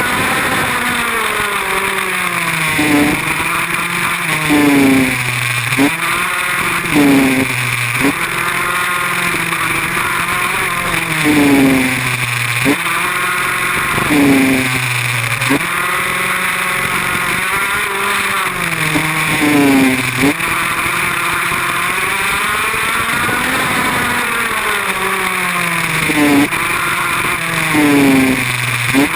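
Small motorbike engine revving hard and easing off again and again, its pitch climbing and dropping every one to two seconds with a few longer steady runs, under a constant hiss.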